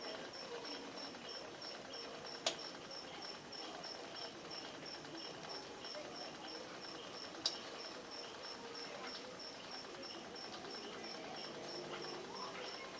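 A cricket chirping steadily in a high, even rhythm of about three chirps a second, with two sharp clicks about five seconds apart.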